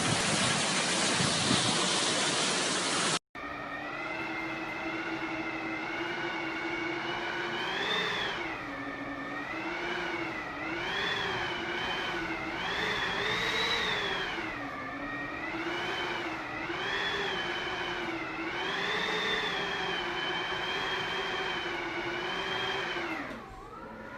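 Hurricane wind and rain rushing for about three seconds. Then, after a sudden cut, a steady whistling howl of storm wind through a gap, its pitch rising and falling every second or two, dropping away near the end.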